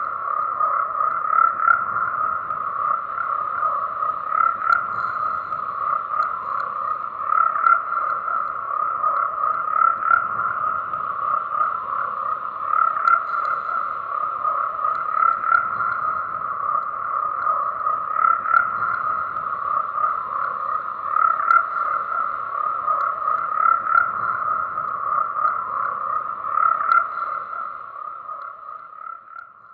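Chorus of frogs croaking, many calls overlapping into a dense steady trill that swells every two to three seconds and dips briefly near the end.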